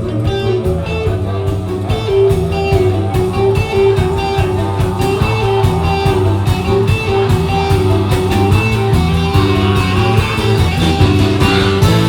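Live band playing an instrumental passage: a guitar melody over bass and a steady drum beat.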